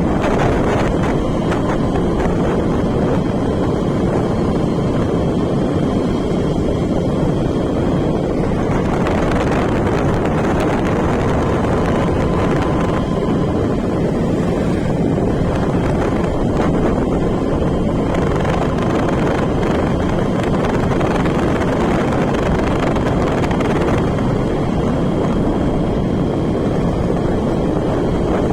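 Steady wind buffeting the microphone over the running noise of a moving road vehicle, with a faint steady whine.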